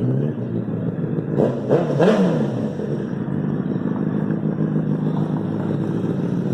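Motorcycle engine running steadily, with one quick throttle rev about a second and a half in whose pitch rises and falls back.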